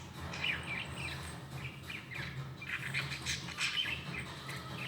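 A bird chirping in a rapid run of short notes, some sliding down in pitch, with a low steady hum underneath.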